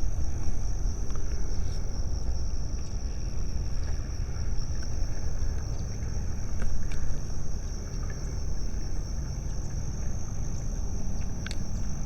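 A steady high-pitched insect drone over a loud, continuous low rumble.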